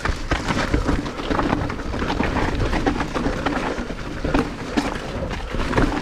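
Mountain bike running fast downhill over loose dirt and rocks: a steady crunch and rumble from the tyres, with many quick clatters and rattles from the bike over the rough ground.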